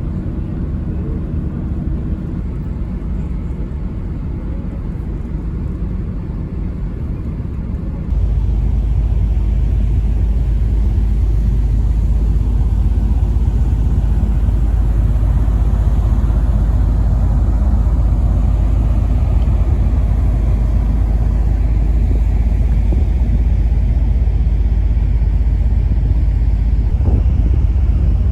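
Steady low rumble of a car ferry underway, its diesel engines and the wind on the microphone blending into one noise. About eight seconds in it suddenly gets louder and heavier in the low end, and it holds there.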